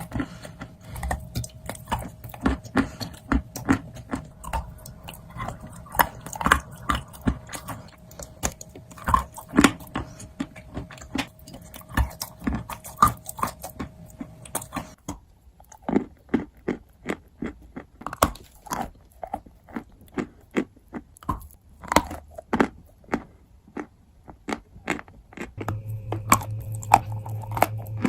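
Close-up crunching and chewing of dry edible earth (chalk and baked clay): a steady run of sharp, brittle crunches, several a second, with a break in the background about halfway through and a low hum coming in near the end.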